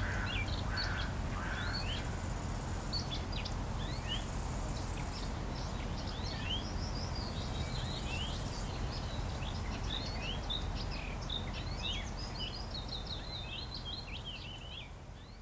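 Many small birds chirping and twittering, dense and overlapping, over a steady low background rumble; it all fades out near the end.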